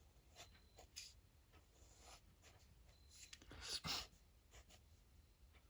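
Fineliner ink pen scratching on paper in short, quiet strokes, with a louder run of strokes about three and a half seconds in.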